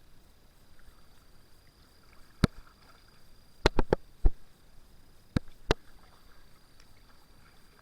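Kayak paddling, with a handful of sharp knocks of the paddle against the kayak's hull: one about two and a half seconds in, a quick cluster near four seconds, and two more just before six seconds.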